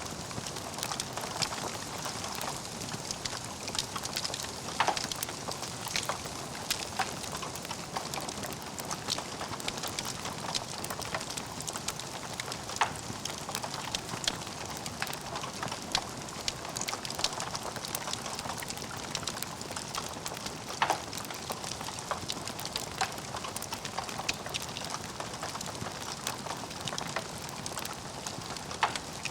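Log fire crackling: a dense, steady patter of small crackles with a few louder pops scattered through.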